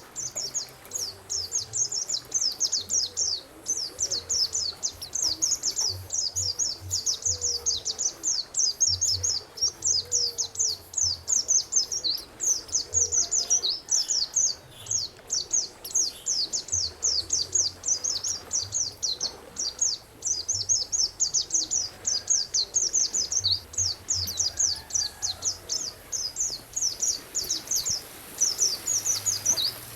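A songbird singing a fast, continuous chattering song of short, high, downward-sweeping notes in long phrases with brief gaps.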